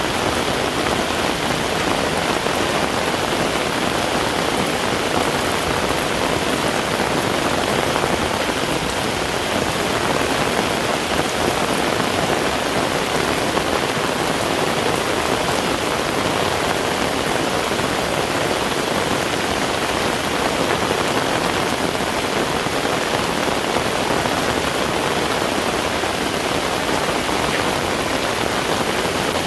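Heavy rain falling steadily, a dense even hiss of water hitting the surfaces all around.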